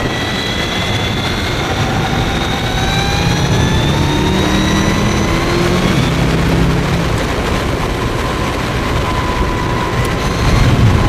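Mavizen TTX02 electric motorcycle's motor whining, its pitch rising steadily for about six seconds as the bike accelerates, then levelling off. Heavy wind rush on the onboard microphone runs underneath.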